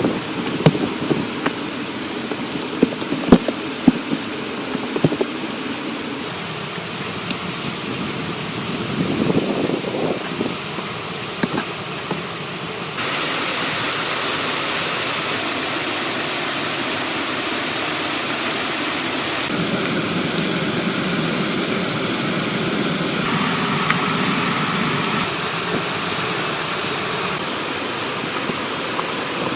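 Steady hiss of falling or running water, with sharp knocks and taps in the first half. Partway through, the hiss becomes louder and brighter.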